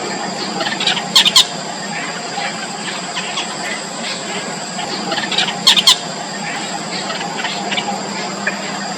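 Yellow bittern chicks squealing in the nest: a run of short, high calls, with two loud clusters of sharp squeals, one about a second in and one near the middle, over a steady background hum.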